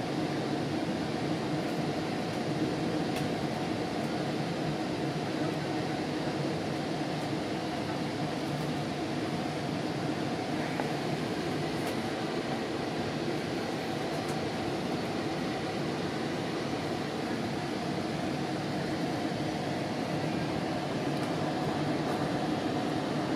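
Steady running rumble inside a moving GO Transit commuter train coach, an even, unbroken noise with no distinct clanks or announcements.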